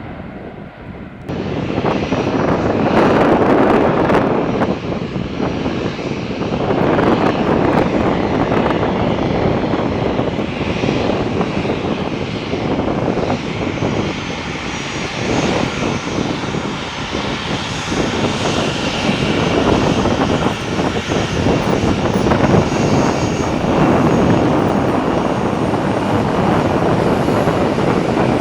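Airliner engines running loud and close: a steady roar with a high whine over it, starting abruptly about a second in.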